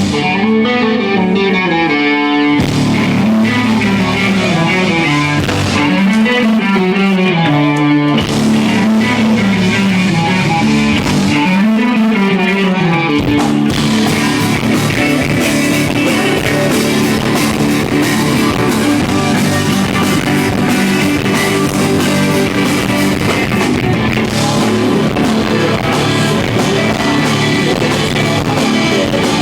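Live rock band playing: an electric guitar picks a melodic line with little else behind it, then about halfway through the drums and bass come in and the full band plays on.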